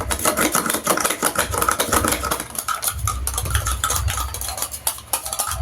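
A spoon stirring and clinking quickly against the inside of a small pot, dissolving baking soda in boric acid water for slime activator.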